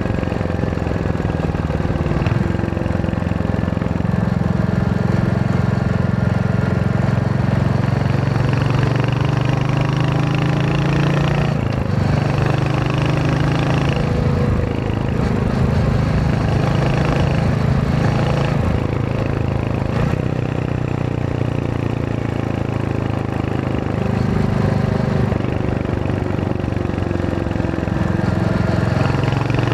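Royal Enfield Hunter 350's single-cylinder engine and exhaust running under way, its pitch rising and falling with throttle and dropping briefly several times.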